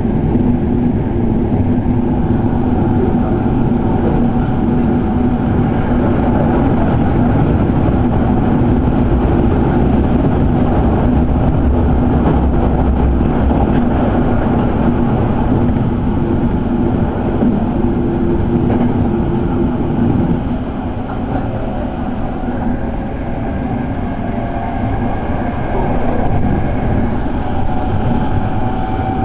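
Electric commuter train running between stations, heard from inside the car: a steady rumble of wheels on rail with a motor hum that drops away about twenty seconds in, and a slowly rising motor whine near the end.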